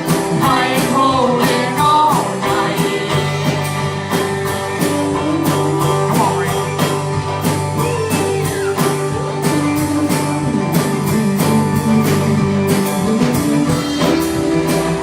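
Live band music with electric guitar, bass and drums playing a steady beat, and a singing voice over it; the bass line comes in about three seconds in.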